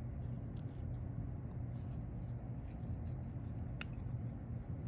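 Faint rustling and small crinkles of a sheet of colored paper being handled and folded in half, with one sharper click about four seconds in, over a steady low hum.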